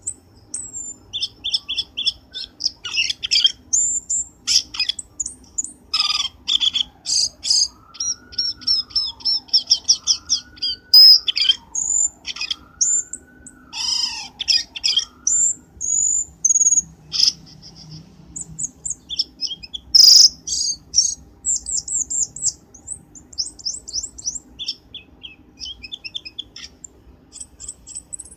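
Cucak keling bird song played as a lure call: quick, varied chirps and high whistled notes in rapid runs. In the middle a lower whistle glides up and down over several seconds, and there is a sharp click about 20 seconds in.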